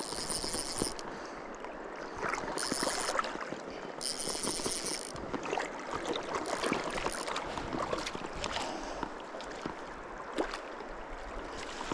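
Shallow stream water running, with splashing while a hooked cutthroat trout is played. Three short high-pitched buzzes come near the start, about two and a half seconds in and about four seconds in.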